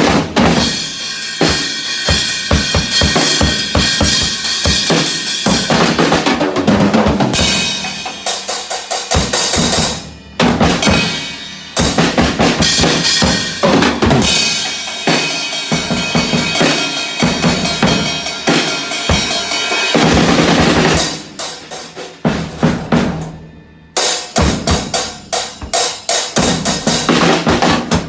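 Acoustic drum kit being played, with fast snare and kick strokes and rolls under long washes of cymbal. The heads are tuned very tight. The playing breaks off briefly about ten seconds in and again near twenty-four seconds, after a cymbal rings out.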